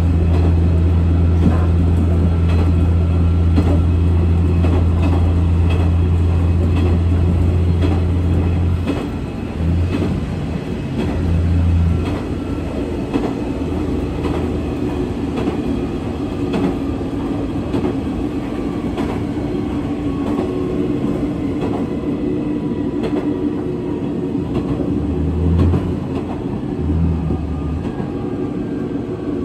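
Diesel railcar running on the rails, with a strong steady low engine drone that eases off about nine seconds in and comes back only briefly after. Wheels click over the rail joints throughout.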